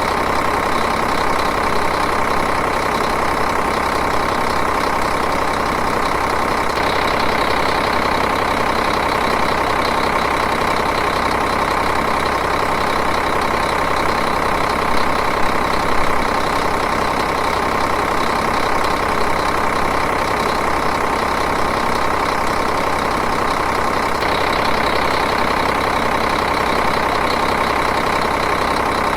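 Diesel engine idling steadily, an even, continuous clatter.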